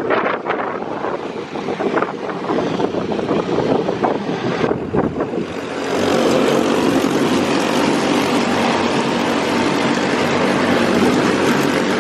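Briggs & Stratton four-stroke kart engines running on a race track, a dense droning buzz that becomes louder and steadier about six seconds in.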